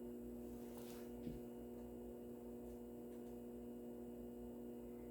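Faint, steady electrical hum with a few even tones, and a faint click about a second in.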